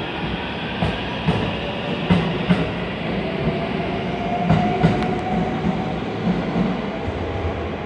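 Ainokaze Toyama Railway 521-series electric train pulling out of the station. Its wheels clack over rail joints in pairs over a steady rumble, and a faint whine rises slightly in pitch from a few seconds in.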